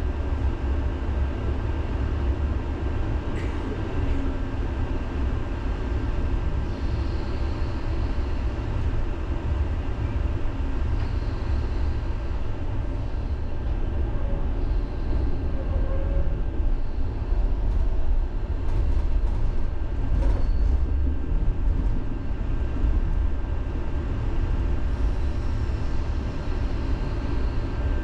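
Tram running on its rails, heard from inside the car: a steady low rumble with a faint constant high tone, and a few light clicks about twenty seconds in.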